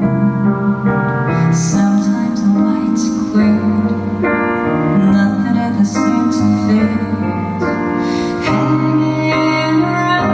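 Live slow ballad on acoustic piano, with a sustained melody line held over the piano chords and the notes changing every second or so.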